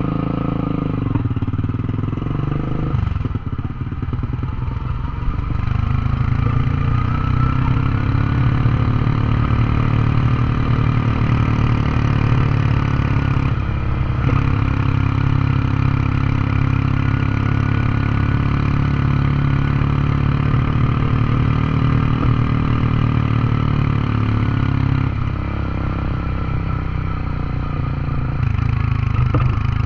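Honda CB150X single-cylinder four-stroke engine held in gear with the throttle closed, engine braking while the motorcycle rolls downhill. Its pitch rises over the first few seconds, then holds steady, with brief changes about halfway through and near the end.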